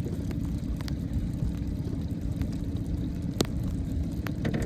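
Steady low wind rumble on the microphone, with irregular sharp clicks and taps. One of the taps, about three and a half seconds in, is louder than the rest.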